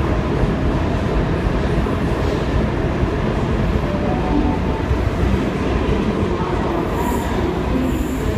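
Sydney Trains Waratah (A set) double-deck electric train departing an underground platform, its steady rumble running on as it pulls away into the tunnel, with a couple of brief high squeaks near the end.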